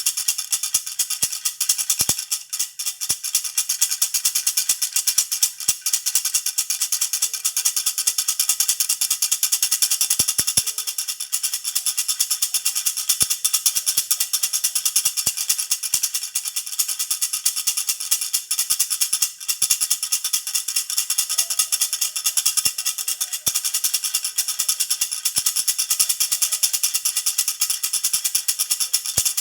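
Baby rattle (jhunjhuna) shaken rapidly and continuously: a dense, steady, high-pitched jingling of many quick small strikes.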